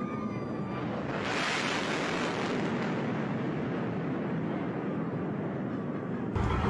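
Fighter jet making a low pass: a wide roar of jet noise that swells about a second in and holds, shifting abruptly to a deeper rumble near the end.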